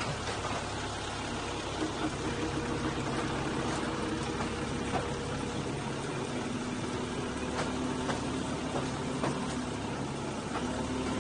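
Narrow-gauge diesel train running downhill, heard from an open passenger carriage: a steady engine hum with wheel-on-rail rumble and a few sharp clicks. The engine note shifts about halfway through and again near the end.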